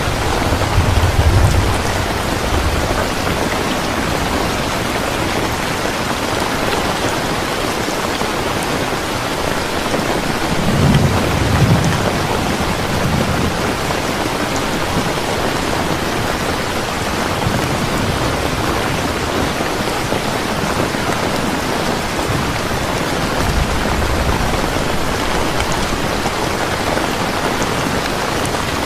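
Steady heavy rain falling, with low rolls of thunder rumbling near the start, again about ten seconds in, and faintly later on.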